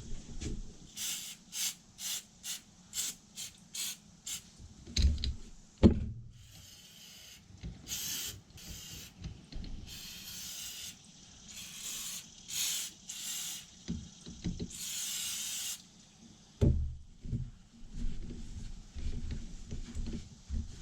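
Aerosol electronics cleaner sprayed from a can: a quick run of short spritzes, then several longer hisses of about a second each, with knocks from handling in between, the sharpest about six seconds in.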